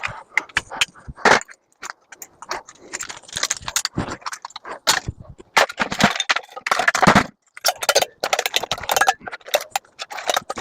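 Hand tools cutting aluminum off salvaged microwave parts: a run of irregular metallic clicks, snips and clinks with short pauses between them.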